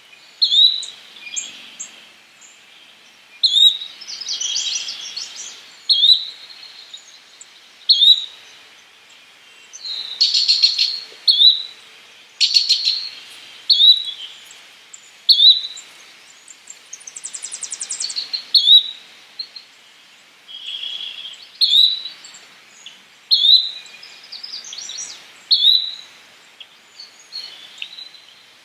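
Yellow-bellied flycatcher repeating a short, sharp call about every two seconds, with other birds' trills and rapid note series between the calls.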